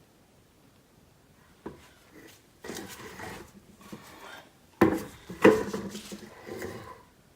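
Objects handled on a work surface. A click, then scraping and rubbing, then two sharp knocks in quick succession about five seconds in, followed by more rubbing and light clatter.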